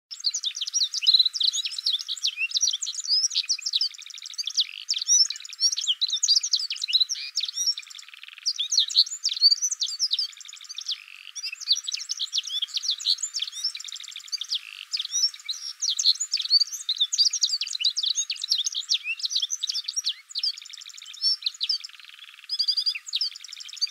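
Songbirds singing, a dense chorus of quick high chirps, warbles and trills.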